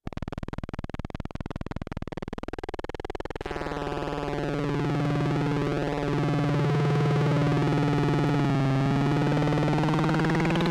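Little Monster VCO analog synthesizer oscillator with its pulse width and pitch modulated by a looping envelope. It starts as a fast pulsing buzz, then about three and a half seconds in settles into a held low tone whose overtones sweep up and down as the pulse width shifts.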